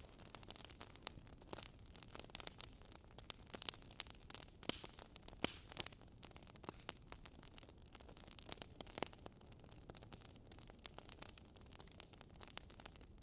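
Wood fire crackling: irregular sharp pops and snaps over a low steady hiss of burning logs.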